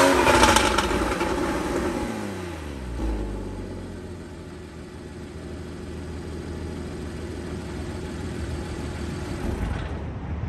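Porsche 981 Cayman's 2.7-litre flat-six through its stock exhaust. The revs fall away over about three seconds after a rev, then it runs steadily at low revs.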